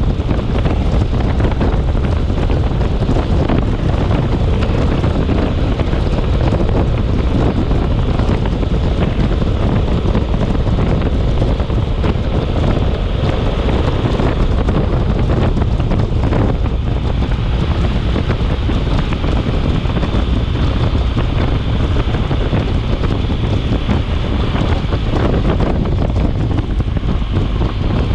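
Storm wind blowing hard across the microphone: a loud, steady rush with a heavy low rumble and no let-up.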